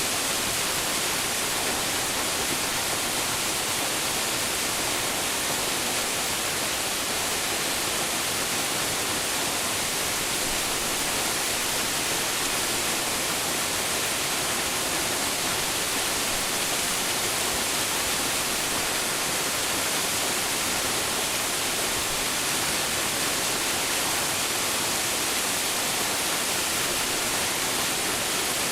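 Waterfall pouring steadily: a constant hiss-like rush of falling water, even in level throughout.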